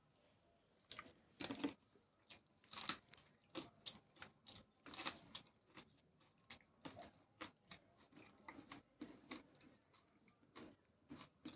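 A person biting and chewing crisp raw vegetables close to the microphone: irregular crunches and crackles, starting about a second in.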